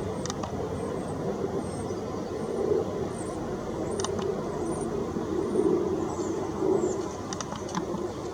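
Steady rumble of road traffic, with short, thin, high bird chirps scattered through it and a few sharp clicks.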